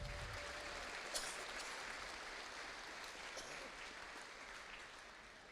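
Audience applause in a large hall, fading steadily away.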